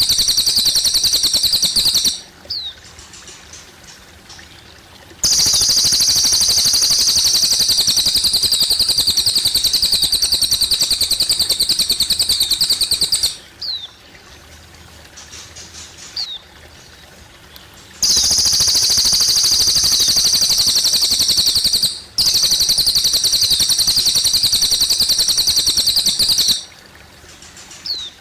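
Cililin bird singing long, very rapid, high-pitched trills, each lasting several seconds and stopping abruptly, four bouts in all. Trickling water runs underneath and is heard on its own in the pauses.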